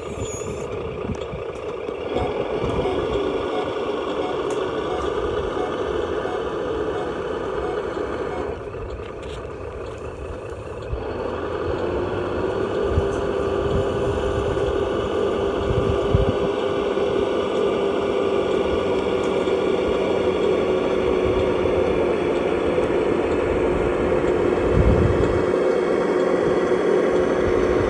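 1/14-scale RC utility truck running, with a steady whine and low rumbling and knocking as it drives. The sound dips briefly and comes back louder after about eleven seconds.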